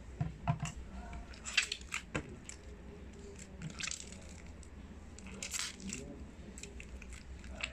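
Slime mixture being stirred and handled in a container, with scattered clicks and short wet squishing sounds.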